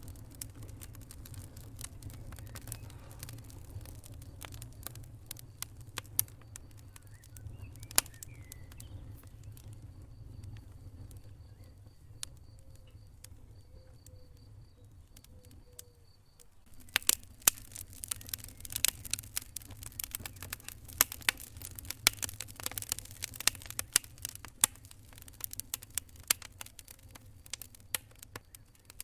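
Wood fire crackling over a low steady rumble: scattered pops and snaps at first, then dense, louder crackling from just past halfway.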